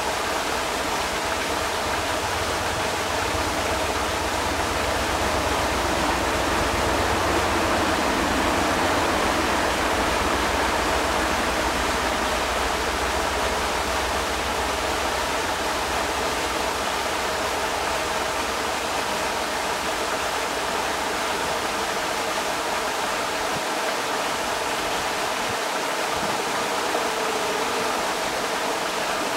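Creek water rushing steadily over rocks, a constant dense hiss and splash with a low rumble underneath that eases off in the last few seconds.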